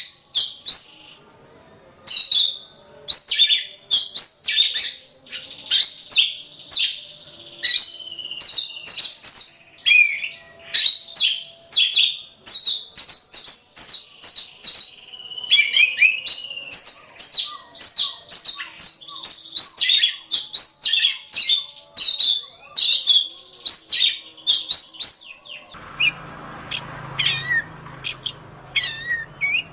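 Oriental magpie-robin (kacer) singing a long, varied run of rapid, sharp whistled notes and chirps, some sweeping down in pitch, with brief pauses. Near the end a steady background hiss comes in under the song.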